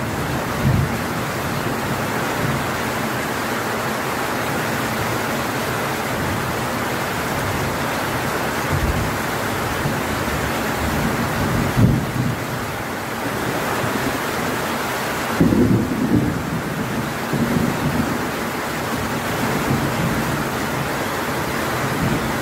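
Heavy rain pouring steadily, a dense even hiss, with a few brief low rumbles: one about twelve seconds in and a cluster about fifteen to seventeen seconds in.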